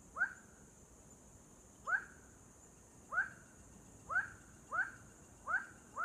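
Unidentified bird calling: a short, rising whistled note, repeated about seven times, the notes coming closer together toward the end.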